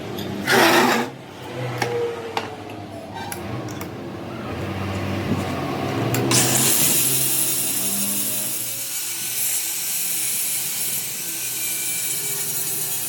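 Metalworking in a workshop: a few knocks and a short loud burst, then from about six seconds in a power tool running steadily with a hissing sound.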